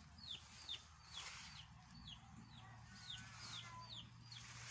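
Faint bird peeps: short high chirps that each slide downward, repeated about twice a second.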